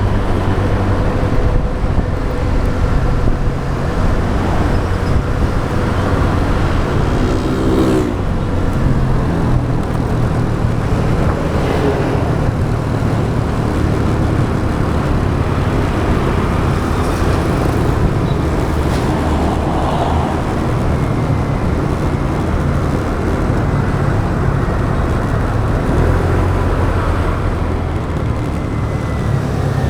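Motorbike riding through city traffic: its engine running with small changes in speed, over wind and road noise, with other vehicles passing.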